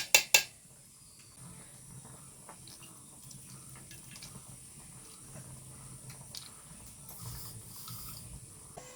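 A metal utensil on a cooking pot: three sharp knocks in quick succession at the start, then faint scattered clinks and scrapes.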